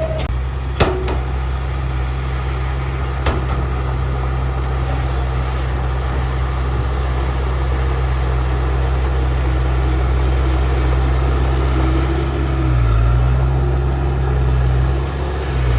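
Heavy diesel earthmoving machinery engine running steadily with a deep, even drone. There are two sharp knocks, about one second in and again about three seconds in, and the engine note shifts briefly near the end.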